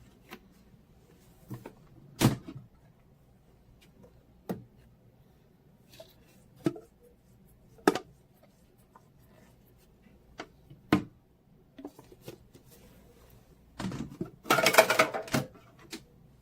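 Hard objects being handled: sharp clicks and knocks every second or two, with a short, louder rattle about three-quarters of the way through.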